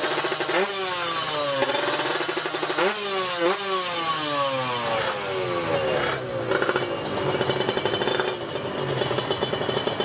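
Drag-racing motorcycles accelerating hard: engine pitch climbs in quick steps through the gear changes, then glides down over several seconds as they pull away, with another engine running rattly underneath.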